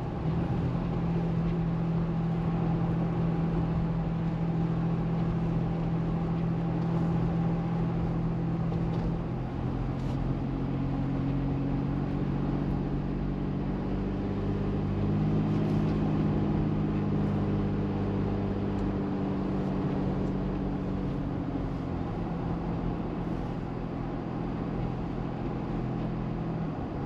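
Car engine and road noise heard from inside the cabin while driving: a steady low drone whose pitch shifts a few times as the speed changes.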